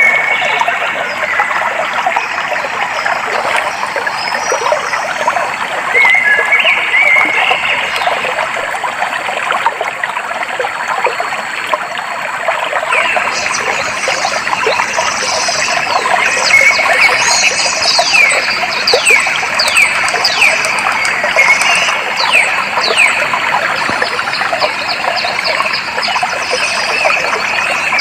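Clear stream water flowing and trickling steadily, with birds calling over it. From about halfway in, a bird gives a rapid series of short, falling chirps.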